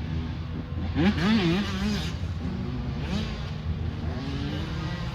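Dirt bike engine revving: its pitch sweeps up and rises and falls with the throttle about a second in, over a steady low engine drone.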